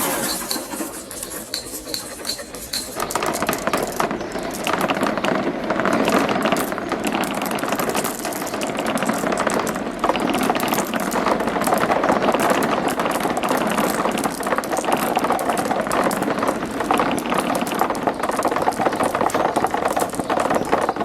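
Marbles rolling and clattering down a marble run's tracks, a dense stream of rattling clicks. It is quieter for the first few seconds, then thickens into a continuous clatter about three seconds in.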